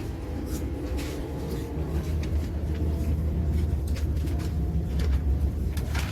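E5 series Shinkansen train running, a steady low rumble with faint light clicks.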